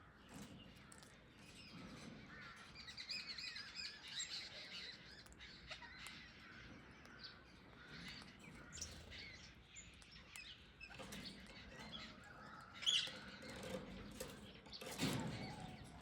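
Small birds chirping in short scattered calls, with one sharper, louder call about thirteen seconds in and a brief thump near the end.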